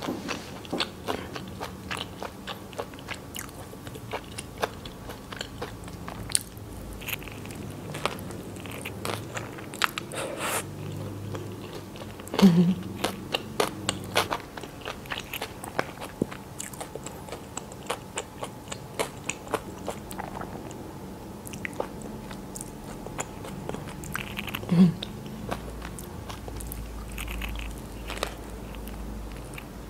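Close-miked eating of a chicken mayonnaise sandwich on soft white bread with lettuce: bites and chewing with many small wet mouth clicks and lettuce crunch. A short hum from the eater twice, near the middle and a few seconds before the end.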